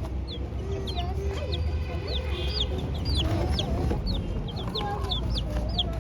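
Young chicks peeping constantly, several short high-pitched peeps a second, with lower wavering calls underneath.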